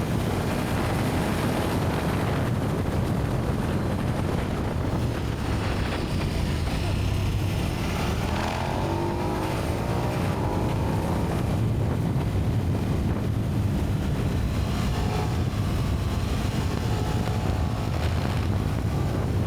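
KTM 1290 Super Duke R's V-twin engine running under way through its stock exhaust, with wind rushing over the microphone. About eight seconds in, the engine note rises for a few seconds.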